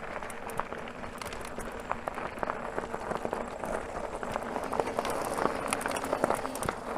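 Bicycle rolling along a trail: steady tyre and ride noise, with many small clicks and rattles throughout.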